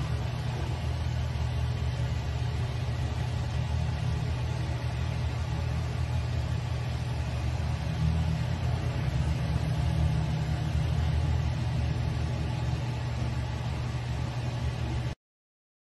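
A car driving, heard from inside: a steady low rumble of engine and road noise that cuts off suddenly near the end.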